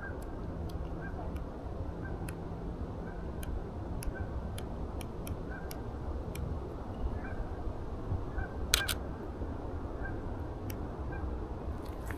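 Shutter of a Canon EOS RP camera clicking as pictures are taken, with a sharp double click about nine seconds in standing out from lighter, irregular clicks, over a steady low rumble.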